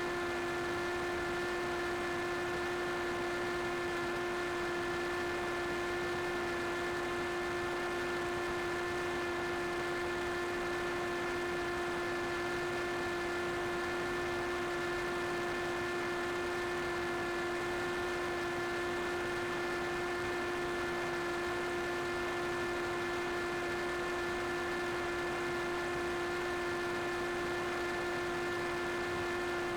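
Small quadcopter drone's propellers whining steadily at hover, one unchanging pitched hum with a stack of overtones.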